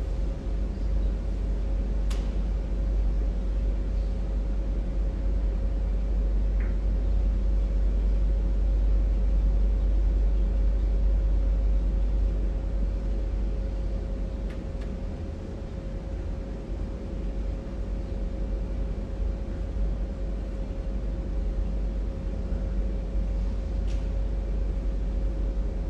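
Steady low rumble of background noise with a constant faint hum running through it and a few faint clicks, in a pause with no recitation.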